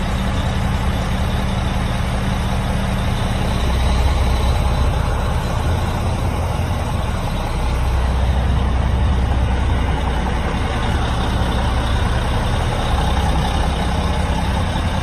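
Claas Xerion 3800 tractor's turbocharged six-cylinder Caterpillar diesel running steadily with an even, low engine hum.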